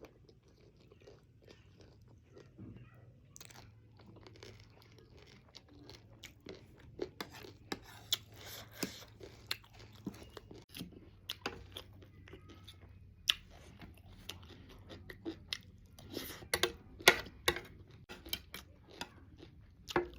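Close-up chewing and crunching of chatpate, a spicy puffed-rice snack, in many small crisp crunches. The crunching grows denser and louder from about six seconds in, loudest between sixteen and eighteen seconds.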